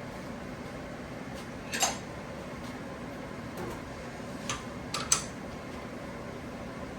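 1943 South Bend lathe running with a steady hum, with a few sharp metal clinks: one about two seconds in and three close together about five seconds in.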